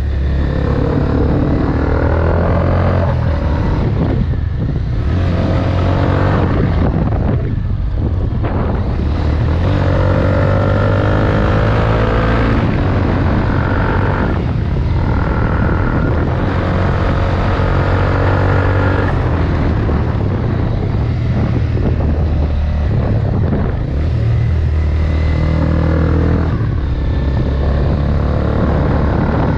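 Honda CBR250R single-cylinder engine running through a Delkevic exhaust with its dB killer removed. It revs repeatedly, the pitch climbing and then dropping off several times.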